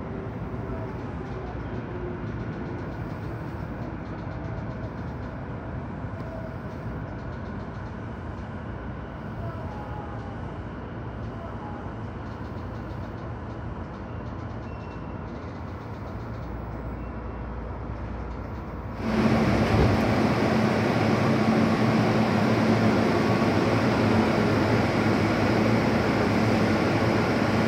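Sotetsu 12000 series electric train running noise as it pulls out of the platform and heads for the tunnel, a steady rumble. About two-thirds of the way in it cuts abruptly to a louder, steady hum with a low drone, from the train standing at an underground platform.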